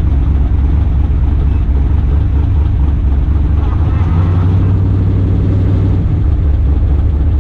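Twin-turbo big-block Chevy V8 running steadily at low revs, a loud, deep rumble that holds an even pitch.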